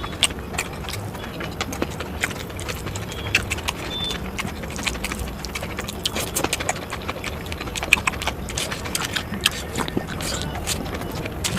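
Close-miked eating sounds: irregular chewing clicks and crunches, several a second, over a steady background hiss.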